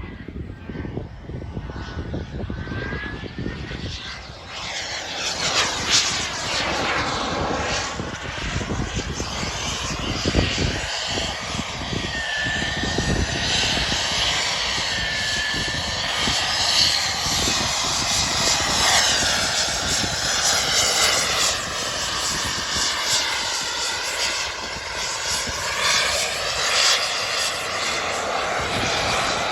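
Turbine engine of an RC model jet whining in flight, its pitch swooping down and back up as the jet makes passes, louder from about four seconds in.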